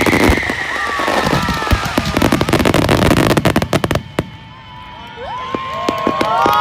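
Aerial fireworks bursting in a dense rapid crackle, with a long falling whistle over the first couple of seconds. The crackle cuts off about four seconds in, and near the end the crowd starts cheering.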